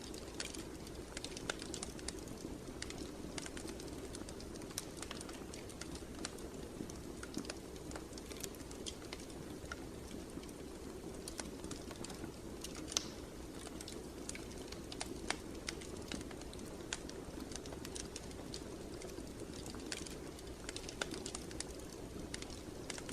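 Wood fire burning, with a steady low rushing sound and irregular sharp crackles and pops.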